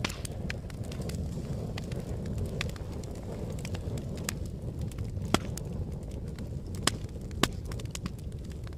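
Fire burning with a steady low rumble and frequent sharp crackles, and a few louder pops in the second half.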